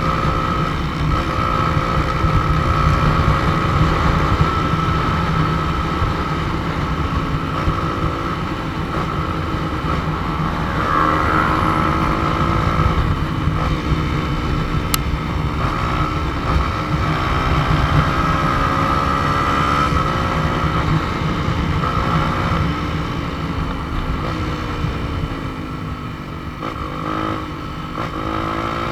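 Motorcycle engine running under way, its note rising and falling with throttle and gear changes, over a constant low wind rumble on the microphone.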